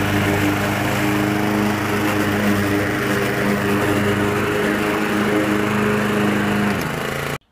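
Honda walk-behind lawn mower's small single-cylinder engine running steadily at mowing speed. It dips slightly in pitch near the end, then cuts off suddenly.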